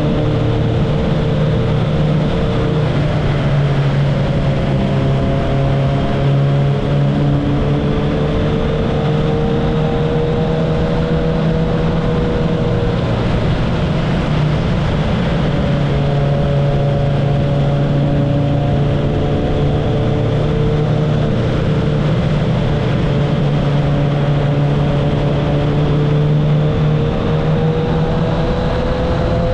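Kawasaki ZX-10R inline-four sportbike exhaust while riding, the engine note holding steady and drifting gently up and down with the throttle, with short dips in pitch a few times.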